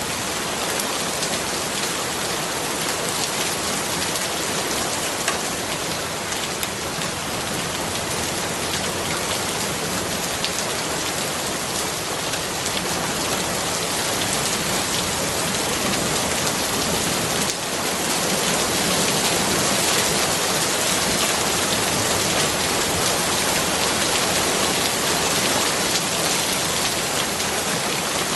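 Steady rain falling, an even hiss of countless drops, growing slightly louder about two-thirds of the way through.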